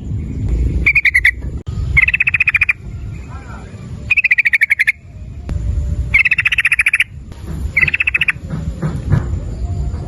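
Yellow-vented bulbul (trucukan) calling: five short bursts of fast, repeated chattering notes, each under a second, over a low background rumble.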